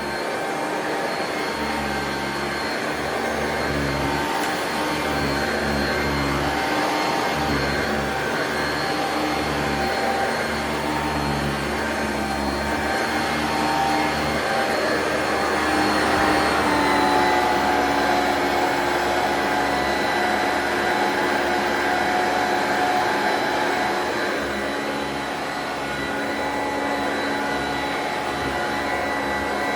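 Singer System 90 vacuum cleaner running steadily as it vacuums, a motor whine over a fluctuating low rumble. About halfway through, the whine's pitch drops slightly and then holds steady.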